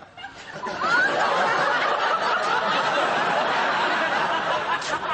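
Studio audience laughing after a punchline. The laughter swells about a second in and then holds steady.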